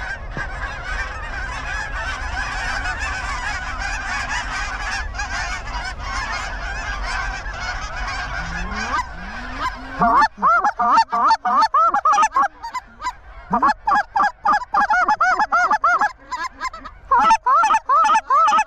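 A flock of geese honking, many calls overlapping into a steady din; from about ten seconds in, close, loud, rapid honks and clucks come in bursts.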